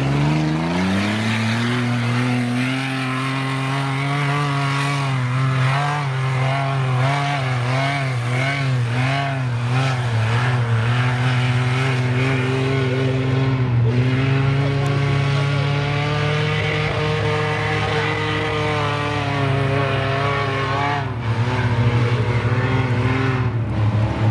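Off-road 4x4's engine revving up and held at high revs under load. The note wobbles up and down for a few seconds in the middle and changes about three seconds before the end.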